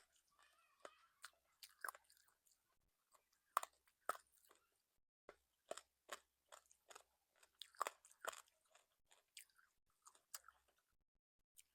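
Chewing with crisp, irregular crunches of fried food, bite after bite, pausing briefly about five seconds in and again near the end.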